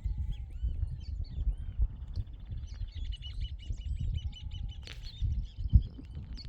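Several birds chirping and calling, with a rapid trill of repeated notes through the middle, over a loud, uneven low rumble.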